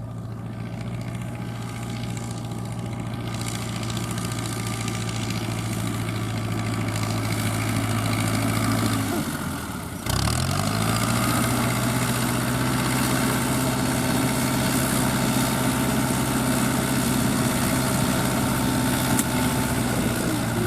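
FIAT 640 tractor's four-cylinder diesel engine running steadily while pulling a straw-rolling baler, growing louder over the first nine seconds. About nine seconds in the engine note sags and drops in pitch, then it comes back suddenly at full level and runs steadily.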